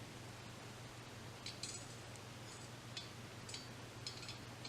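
Several faint, short clicks and clinks, starting about a second and a half in, over a steady low hum.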